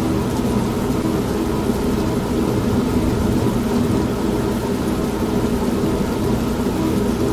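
Old washing machine running with a steady motor hum, mixed with steady rain.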